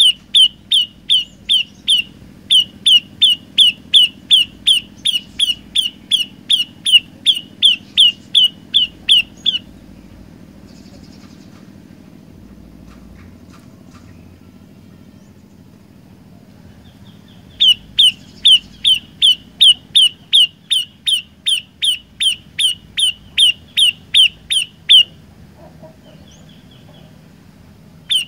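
A prenjak lumut songbird singing a fast run of sharp, downward-sweeping chirps, about two and a half a second. It sings for the first ten seconds, pauses for about eight seconds, sings again for about seven seconds, and starts up once more at the very end.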